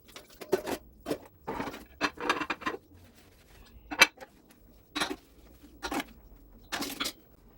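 Irregular clinks and clatter of cutlery and dishes being handled, about ten short knocks at uneven intervals with a pause midway.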